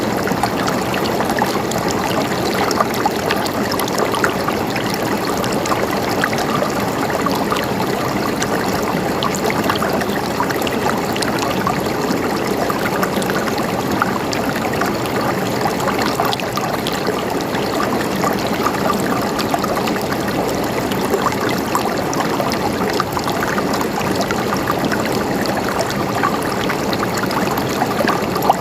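River water running over rocks, a steady babbling and splashing with no change.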